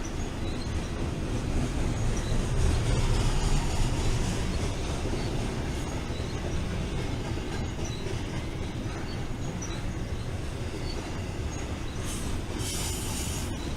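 BNSF intermodal freight train rolling past: a steady rumble of steel wheels on rail with clickety-clack from rail joints and brief, faint wheel squeals. It is loudest a few seconds in, and a short hiss rises near the end.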